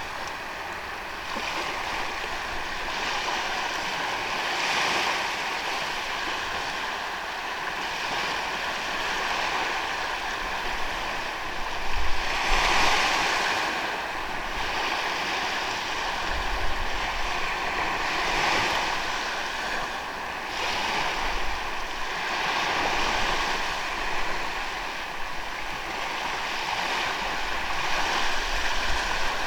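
Ocean waves breaking and washing up on a sandy beach, the surf swelling and easing every few seconds, with the biggest surge about twelve seconds in.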